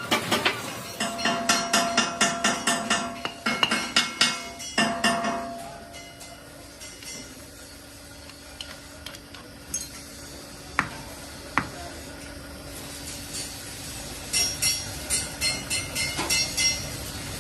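Hammer blows ringing on metal, struck rapidly at about four a second in two runs: one in the first few seconds and another near the end, with a couple of single knocks between them.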